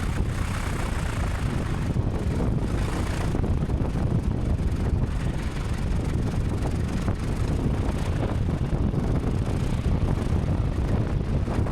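Small airplane's piston engine and propeller running steadily at low taxi power, a constant low rumble.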